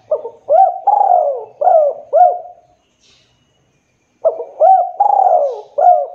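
Spotted dove (tekukur) cooing: a phrase of about five hooked, rising-and-falling coo notes, then after a pause of about a second and a half a second phrase of the same kind.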